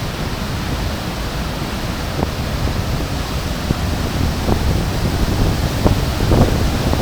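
Waterfall heard at close range: a loud, steady rush of falling water, with a few brief knocks over it.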